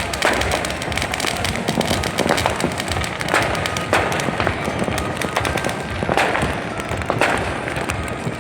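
New Year fireworks going off in rapid succession: a dense crackle of pops with louder bangs every second or so.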